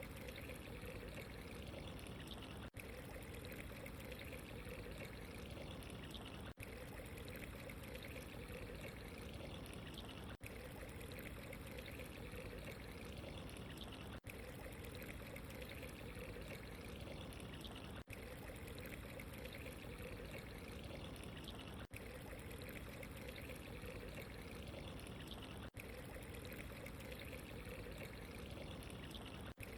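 Steady trickling, pouring water ambience, with a brief dip in level about every four seconds.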